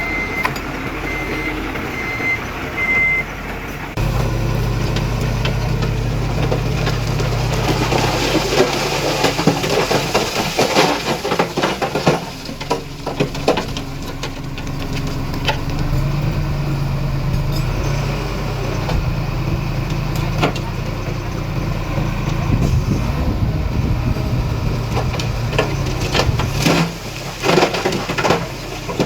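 Heavy diesel earthmoving machinery at work. A reversing alarm beeps about once a second for the first few seconds, then about four seconds in a diesel engine comes up under load and runs with scattered knocks and clatter.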